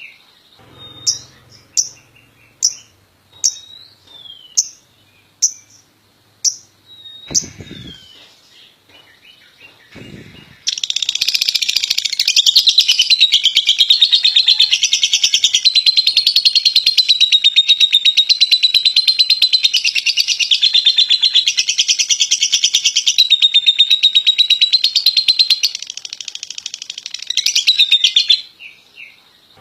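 Lovebird calling: sharp single chirps about once a second, then about ten seconds in it breaks into a long unbroken rapid high-pitched chatter, its 'ngekek' song, lasting nearly eighteen seconds before it stops shortly before the end.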